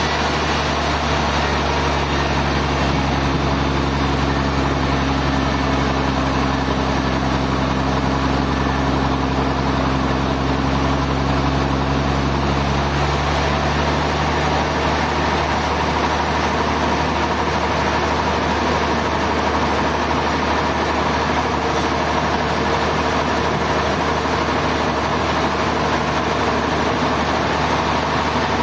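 Sawmill machinery running steadily with a loud, even engine-like drone; a set of low tones in it stops about halfway through, leaving the steady machine noise.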